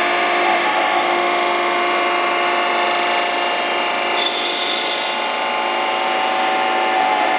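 1974 Rosa RTRC 1000 surface grinder running, its grinding wheel rubbing across the workpiece with a continuous gritty sound over a steady hum. A brighter hiss swells for about a second midway.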